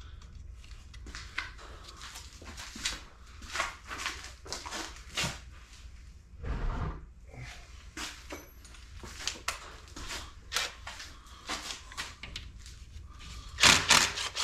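Hand tools and metal parts being handled on a workbench: irregular clicks, clinks and knocks, with a louder clatter near the end.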